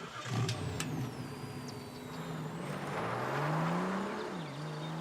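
Car engine accelerating: its pitch climbs steadily, drops once a little past four seconds in at a gear change, then climbs again. A few sharp clicks come just before it, near the start.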